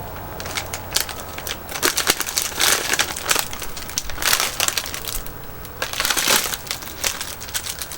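Crinkly plastic candy packaging being handled and turned over, with irregular crackling rustles throughout.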